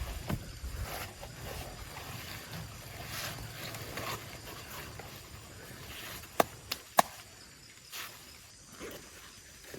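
Three sharp knocks in quick succession about six and a half seconds in, then a softer one about a second later, over a faint steady hiss.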